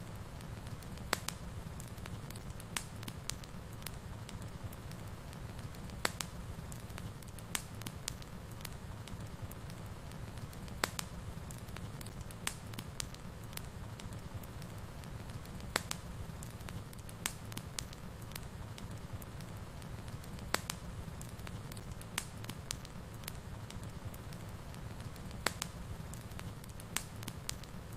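Wood fire burning steadily with a low rumble, and sharp crackles and pops at irregular moments, a few each second.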